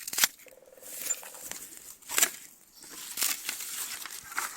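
Dry giant ragweed stalks being cut shorter, with crisp snapping cuts near the start, about two seconds in and about three seconds in, amid lighter crackling of the dry stalks being handled.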